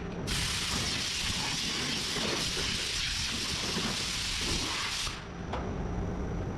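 A steady hiss of escaping air or spray that starts just after the beginning, lasts about five seconds and cuts off suddenly, over a constant low rumble.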